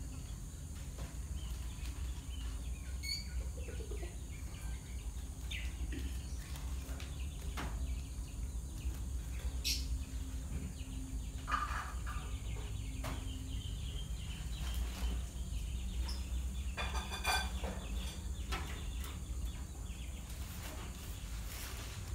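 Scattered short bird chirps and calls, some like a chicken's clucks, the plainest about ten, twelve and seventeen seconds in, over a steady low hum.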